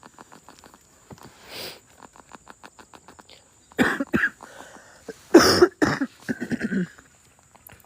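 A person coughing: a short double cough about four seconds in, then a longer, louder run of coughs from about five and a half to seven seconds. Faint fast clicking of insects goes on underneath.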